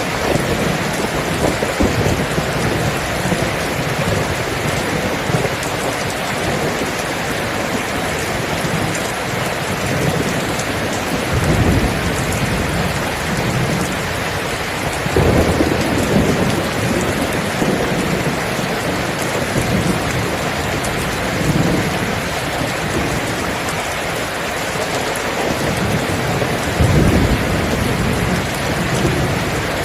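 Steady heavy rain falling, with rolls of thunder rumbling in and out: low swells about a dozen seconds in, around fifteen seconds, around twenty-one seconds and again near the end.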